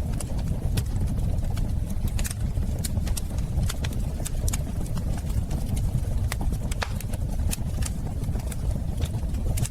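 Wood fire crackling in a fireplace: a steady low rumble of flames with irregular sharp pops and snaps scattered through it.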